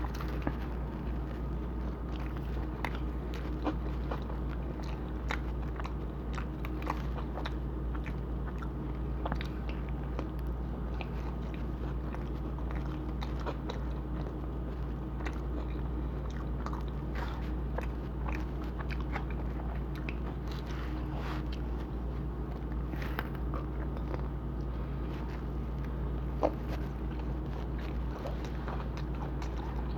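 Close-miked biting and chewing of pizza: many small, irregular crunches and mouth clicks, with one sharper click about 26 seconds in. A steady low hum runs underneath.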